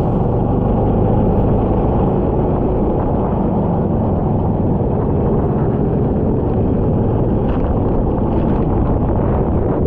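Kart engine running steadily on track, with wind rushing over the onboard microphone.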